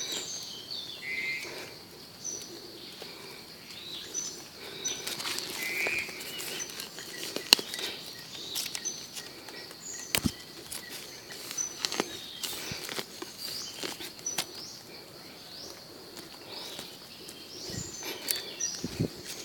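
Birds chirping in woodland: short high calls repeating every second or two, with a couple of brief trills, over a steady high-pitched drone. Scattered sharp clicks and rustles are heard throughout.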